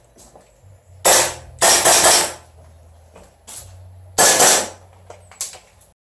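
Blowback airsoft AR-style rifle firing in several short bursts, each a quick mechanical clatter of the bolt cycling. The loudest bursts come about a second in and just after four seconds.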